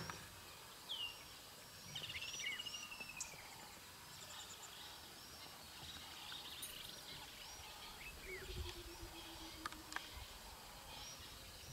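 Several wild birds chirping and whistling over a steady background hiss, with a quick descending trill early on and one drawn-out low falling call about eight and a half seconds in.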